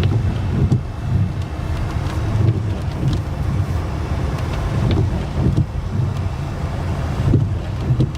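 Car engine and road noise heard from inside the cabin while the car moves slowly, a steady low rumble with a few light knocks.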